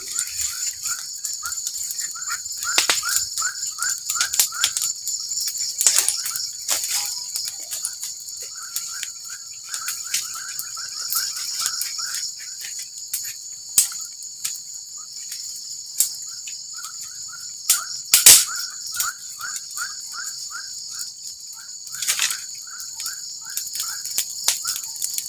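Forest insects droning steadily at a high pitch, with runs of a repeated chirping call at about four chirps a second that stop and start. Scattered clicks and knocks, the sharpest about 18 seconds in.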